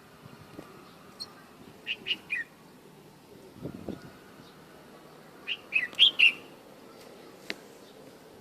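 A bulbul singing two short phrases of a few quick whistled notes, about four seconds apart; the second phrase is louder.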